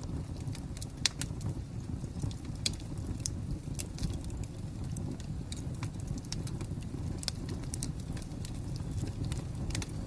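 Wood fire crackling: irregular sharp pops and snaps over a steady low rumble of burning, with one louder pop about a second in.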